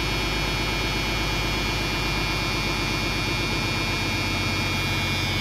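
Mack R-611T diesel engine idling steadily after a cold start, with the truck's low air pressure warning buzzer sounding a steady tone over it while the air system is still building pressure.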